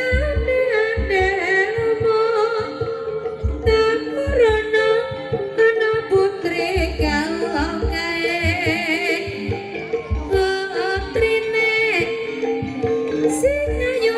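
Live ebeg accompaniment music: a singer's wavering line with vibrato over a steady held instrument note and repeated low drum strokes.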